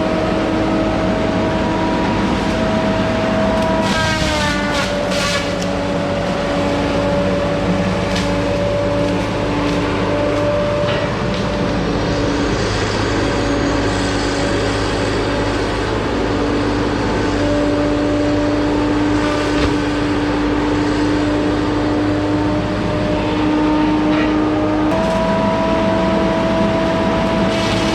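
Two-stroke chainsaw running at full throttle through a tree, its pitch sagging slightly as it bogs into the cut about four seconds in and rising again near the end as the load comes off. A few sharp crackles come at the start of the cut.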